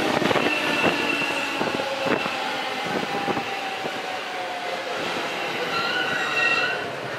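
JR East 209 series 500 subseries electric train pulling into a station and slowing. The wheels squeal in high tones, a steady hum slowly falls in pitch, and the wheels click over rail joints several times in the first few seconds.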